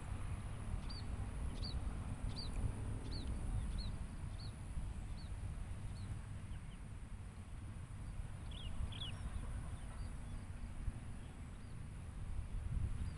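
A bird calling: a run of short, high notes, each sliding downward, about one and a half a second for the first several seconds, then a few more around two-thirds of the way in. Beneath it runs a steady low rumble, with a faint steady high tone.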